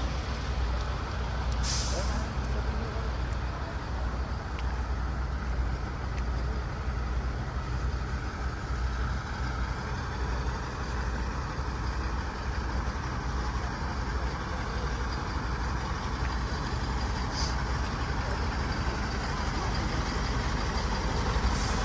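Heavy diesel vehicle engines running steadily with a deep, low rumble, with two short air-brake hisses, one about two seconds in and one near the end.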